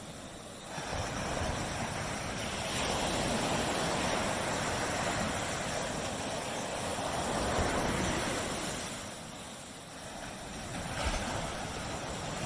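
Surf of small tropical waves washing onto a beach: a wash that builds about a second in, eases near ten seconds, and then another wave rising near the end.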